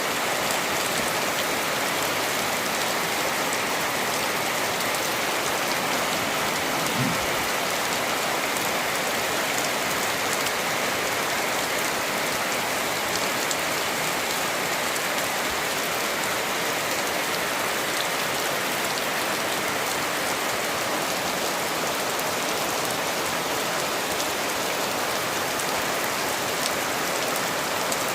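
Steady, dense hiss like heavy rain, even in level throughout, with faint scattered ticks.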